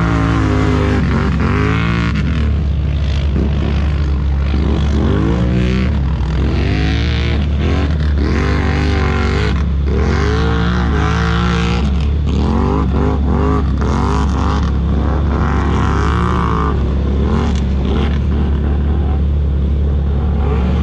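ATV engine revving over and over, its pitch climbing and dropping every second or two, over a steady low drone.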